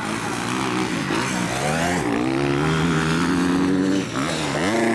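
250 cc grasstrack racing motorcycle engines revving hard, the pitch climbing and falling with throttle and gear changes. There is a brief drop about four seconds in, then a quick climb again.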